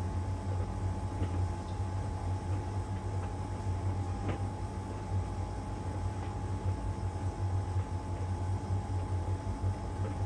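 LG heat pump tumble dryer running mid-cycle in its Iron Dry drying stage, the drum turning with the laundry: a steady low hum and a thin steady higher tone, with faint taps, one clearer about four seconds in.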